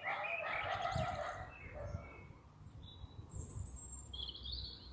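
Several small songbirds chirping and singing, densest in the first two seconds, then separate short high chirps and trills, over a steady low rumble of outdoor noise.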